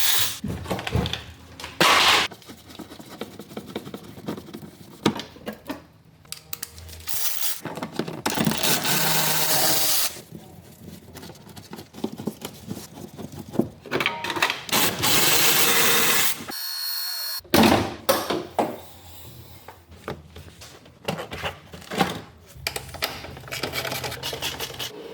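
Workshop tool noise from work on an engine: short clicks and clanks of hand tools, broken up by a few bursts of a power tool, each lasting one to two seconds.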